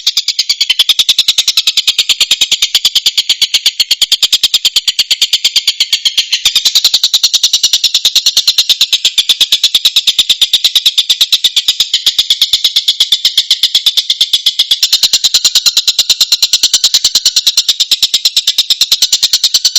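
Tengkek buto kingfisher calling: a loud, fast, evenly repeated high-pitched note run on without a break, a little louder and fuller from about six and a half seconds in.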